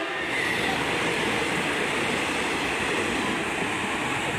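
A train passing along the station platform at speed: a steady, loud rushing noise of the train running on the rails.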